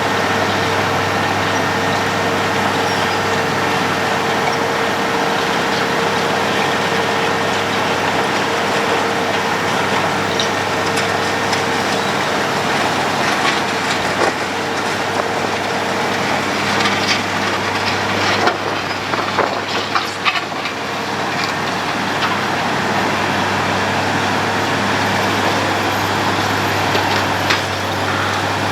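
Road planing machine at work: a steady heavy diesel drone with the grinding of the milling drum, with scattered clanks and knocks in the middle.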